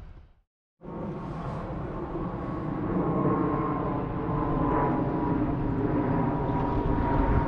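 A train approaching from a distance on an electrified line: a steady hum with a held whining tone, slowly growing louder, over a low rumble. Under a second in, an earlier louder sound fades out to a moment of silence before the hum begins.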